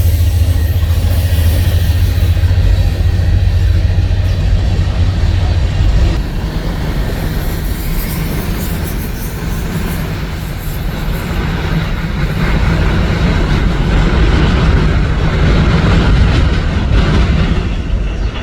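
Freight train passing. A deep diesel locomotive rumble dominates the first six seconds or so, then gives way to the steady rolling noise of the cars on the rails.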